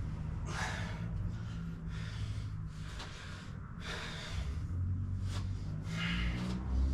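A man breathing hard from exertion, about six loud, rough breaths in and out a second or so apart, over a steady low hum.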